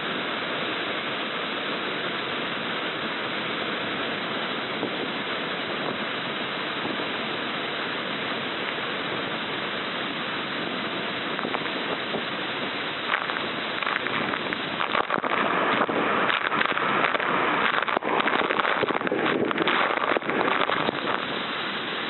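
Rushing water, a steady noise with no engine note. About two-thirds of the way in it grows louder, with a rapid run of sharp splashes.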